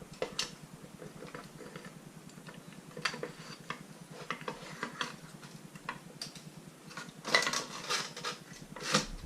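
Irregular light metallic clinks and knocks of metal parts and bolts being handled during engine assembly, loudest in a quick flurry about three-quarters of the way through. A steady low hum sits underneath.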